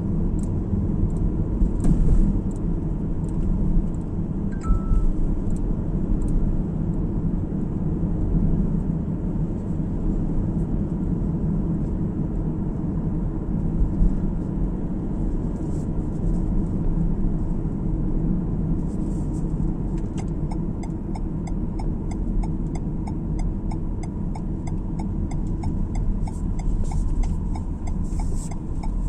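Steady road and engine rumble of a car driving, heard from inside the cabin. A short beep sounds about four and a half seconds in. From about two-thirds of the way through, a regular ticking joins, about two ticks a second.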